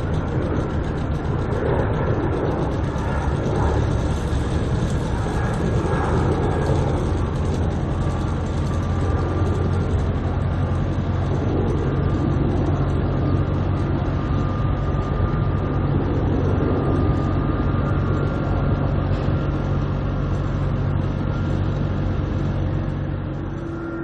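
Jet airliner engines running steadily, with a low hum and a faint high whine over a constant rush of noise that eases slightly near the end.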